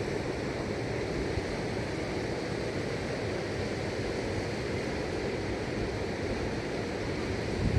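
Steady rushing of a fast-flowing mountain river, an even roar heaviest in the low end.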